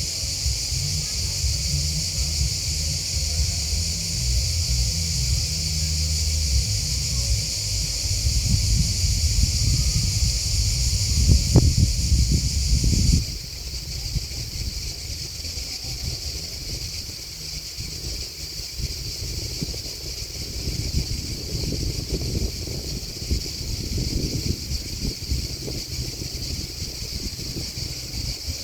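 Steady high chirping chorus of crickets and grasshoppers under a low rumble. About halfway through, the sound shifts abruptly and becomes quieter, as at a splice in the recording.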